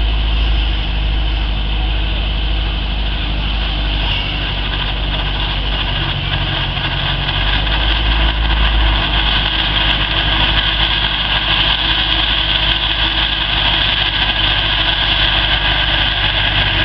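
Robinson R22 Beta II helicopter's four-cylinder Lycoming piston engine running steadily at idle just after start-up.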